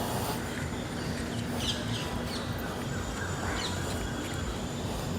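Small birds giving a few short, high chirps over a steady background of city noise with a low, even hum.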